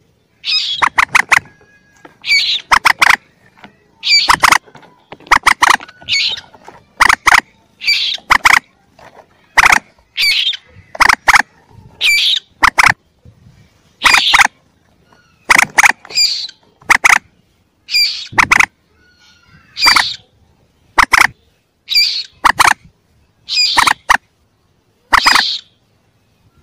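Calls of young common moorhens played as a hunter's lure recording. A loud, sharp call of a few quick notes repeats about every two seconds.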